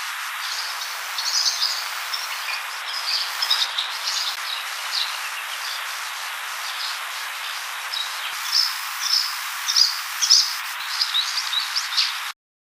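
Many short, high bird chirps from several small birds at dawn, scattered over a steady hiss, busiest near the start and again in the last few seconds. The sound cuts off suddenly just before the end.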